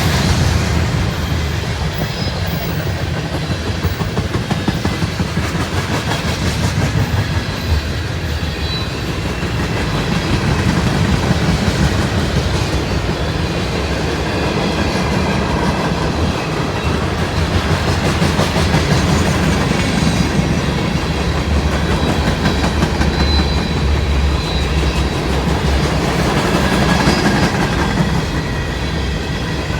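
Freight cars of a manifest train rolling past at close range, a steady low rumble with the rapid clickety-clack of wheels over rail joints.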